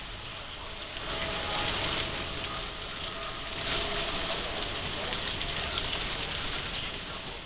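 Heavy rain pouring down in a severe thunderstorm, a dense steady hiss that grows louder about a second in.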